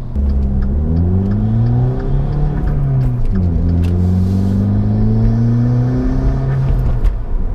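Turbocharged 1.4-litre four-cylinder of a Dodge Dart with a Magnaflow exhaust accelerating hard, its revs climbing steadily. About three seconds in the revs fall sharply at a gear change, then climb again.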